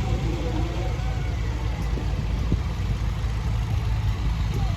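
Farm tractor engines running steadily at low speed, a continuous low rumble.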